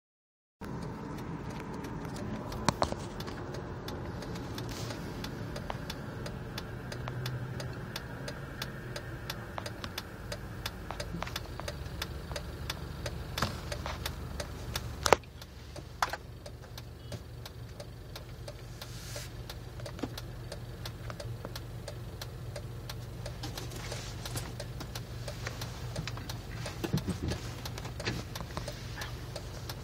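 Jeep engine idling roughly: a steady low drone with many irregular ticks and clicks over it. A few sharper clicks stand out, and the level drops slightly about halfway through.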